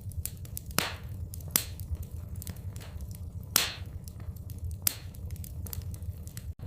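Wood fire crackling in a fireplace: frequent small snaps and a few louder pops over a steady low rumble.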